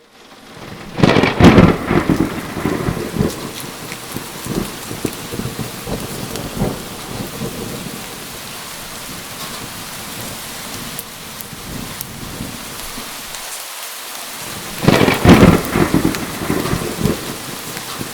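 Steady heavy rain falling, fading in at the start. Thunder cracks and rumbles twice, about a second in and again near the end, each peal trailing off over a few seconds.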